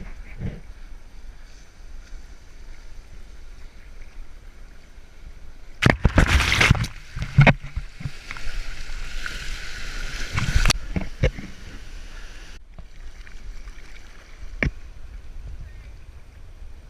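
Water sloshing and splashing, with bursts of louder splashing about six seconds in and again around ten seconds, and a few sharp knocks.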